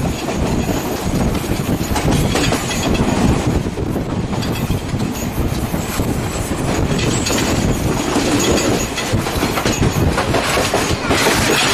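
A passenger train under way: a steady loud rumble of the carriages on the rails with repeated irregular clacks, heard close from an open carriage doorway.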